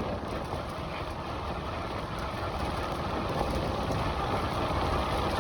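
Wind rushing over the microphone with tyre and road noise as a bicycle gathers speed, growing steadily louder.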